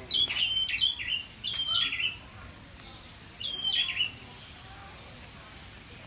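A bird calling: a short, loud, clear call phrase repeated about five times in quick succession in the first four seconds, then it stops.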